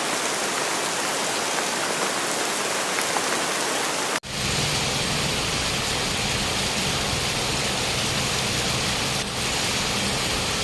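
Steady heavy rain, a dense even hiss. About four seconds in it cuts out for an instant and resumes with a low rumble beneath it.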